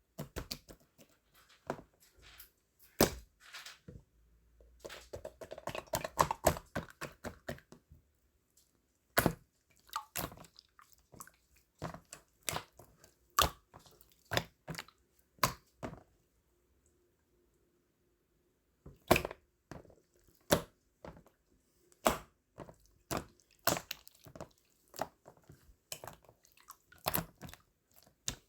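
Irregular sharp clicks, taps and light knocks, like small objects being handled, with a denser rustling stretch about five seconds in and a pause of a few seconds past the middle.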